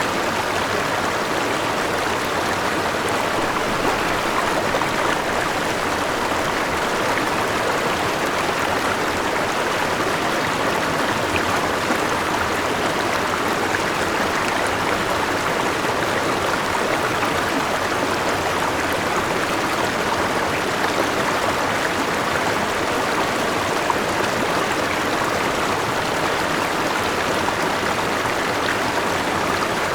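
Forest river running over a small waterfall: a steady rush of flowing water with no change over the stretch.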